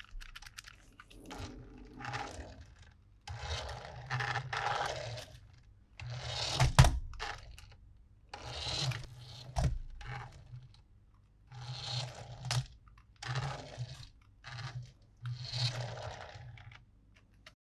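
Hands handling toys and packaging: a series of short rustling, scraping sounds, roughly one a second, with a couple of sharper clicks in the middle.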